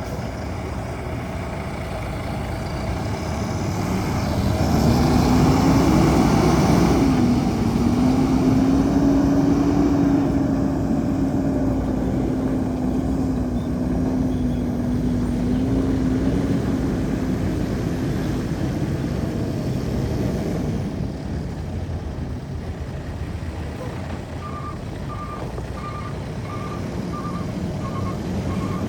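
Truck diesel engine running and picking up revs about five seconds in, with a steady whine above it that rises, then holds for several seconds. Near the end a reversing alarm starts beeping at an even pace as the truck backs up.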